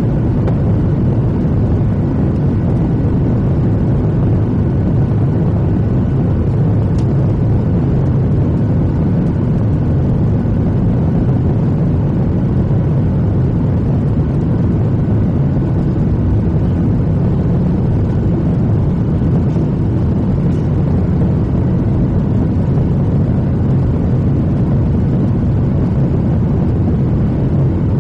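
Steady, even rumble of a Boeing 737-800's CFM56 jet engines and airflow as heard inside the passenger cabin, unchanging in level.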